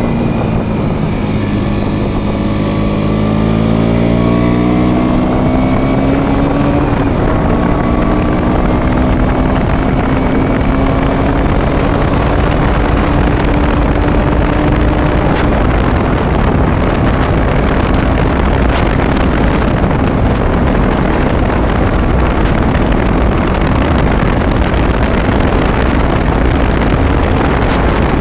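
Motorcycle engine pulling up through the revs over the first few seconds, then holding a steady cruise, with heavy wind noise on the microphone.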